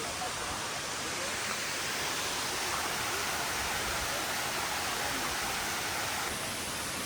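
Steady, even rush of a waterfall and stream.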